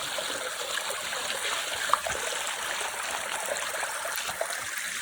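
River water running steadily, with one brief sharp knock about two seconds in.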